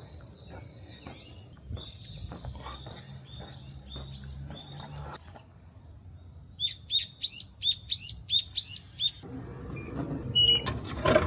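A small bird chirping in two runs of quick, repeated high notes, about three a second, with a short pause between them; the second run is louder. Near the end a louder rushing background noise comes up.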